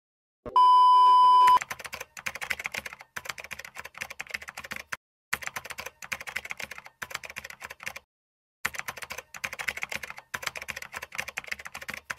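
A steady electronic beep lasting about a second, then rapid keyboard-typing clicks as a sound effect, running in three long stretches with two short pauses.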